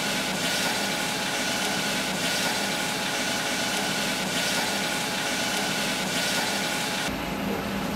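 Tomato pieces sizzling in a hot saucepan on an induction hob as they are stirred with a spatula: a steady hiss that changes abruptly about seven seconds in.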